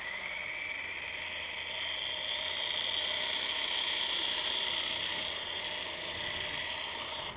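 WLtoys V950 RC helicopter's brushless motor and main rotor whirring steadily, rising slightly in pitch as it spools up, then cutting off at the end. The helicopter is struggling to climb, as it does throughout this flight.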